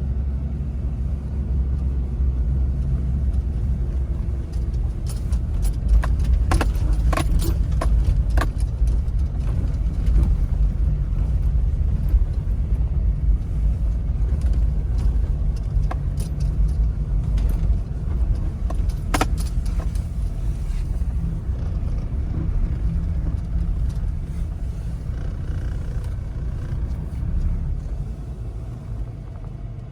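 Toyota Land Cruiser 70 driving, its engine and road noise making a steady low rumble. Light metallic jingling or rattling comes in a cluster a few seconds in and again briefly past the middle.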